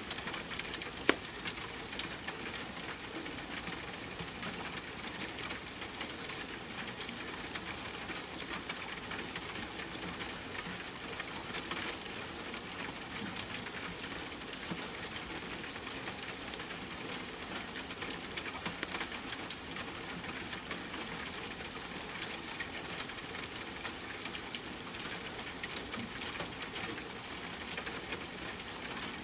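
Steady rain mixed with a crackling fireplace fire, with small crackles throughout and a couple of louder pops, one about a second in and one about ten seconds in.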